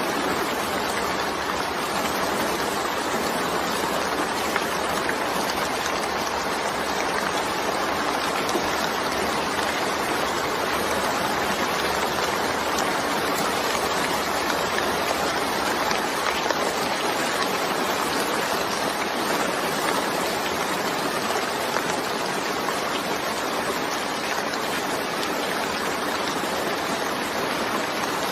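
Steady rain, an even hiss of falling drops that holds constant throughout.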